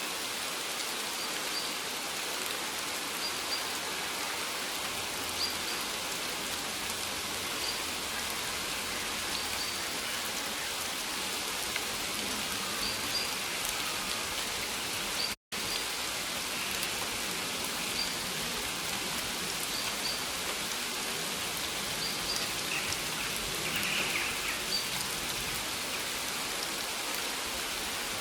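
Steady rain falling, an even hiss of many drops. The sound cuts out completely for an instant about halfway through.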